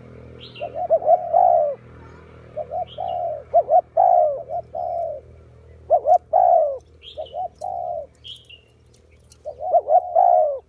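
Spotted dove cooing: repeated phrases of a few low coo notes, a new phrase every two seconds or so. Short high chirps come between some of the phrases.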